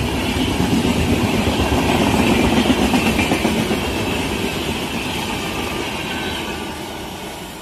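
A fast train passing on the track. The wheel and rail noise grows louder to a peak about three seconds in, then fades away as the train recedes.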